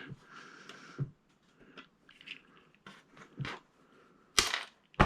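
Handling noises while working on a flat-screen TV's backlight LED strips: a soft rustle, then scattered light clicks and knocks of small plastic parts, the sharpest two close together near the end.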